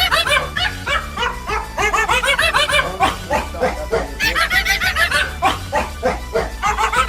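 Background music with a small dog yapping rapidly over it, several short high yips a second.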